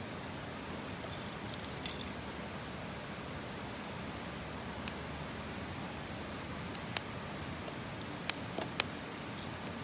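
Campfire crackling: a steady hiss with a handful of sharp, scattered pops, the loudest two close together near the end.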